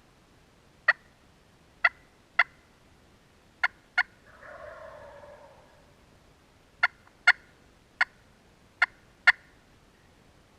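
Wild turkey gobbling once, a fainter rattling call about a second and a half long, starting a little after four seconds in. Around it come ten loud, sharp single clucks at irregular intervals.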